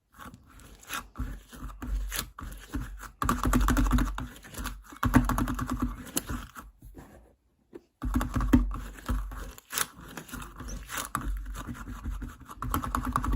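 Sticky frog-egg slime being squished and pulled by hand, with dense crackling, clicking and sticky tearing sounds. It stops briefly a little past halfway, then starts again.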